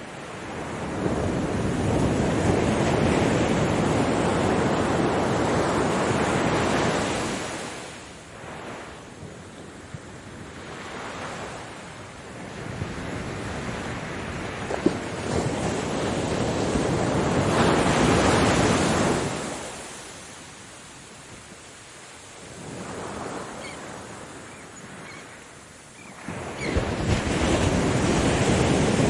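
Ocean waves surging and washing in, the rush swelling and ebbing in slow cycles several seconds long. Three big swells stand out, with quieter wash between.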